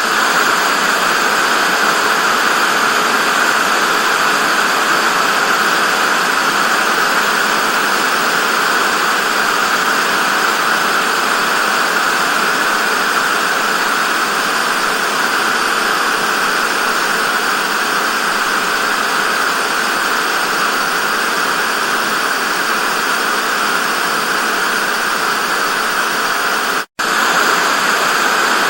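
Television static: a steady, loud hiss, brightest in the upper-middle range and thin in the bass. It cuts out for a split second near the end, then carries on unchanged.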